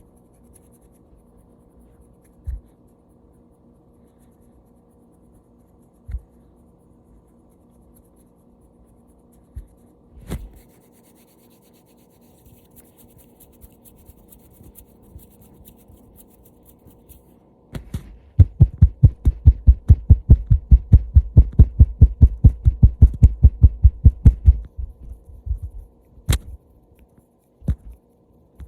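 Fingertip tapping close to the microphone: a few single soft thumps and faint hand rustling, then, about two-thirds of the way in, a fast run of loud, dull taps at about five a second for several seconds. A faint steady hum sits underneath.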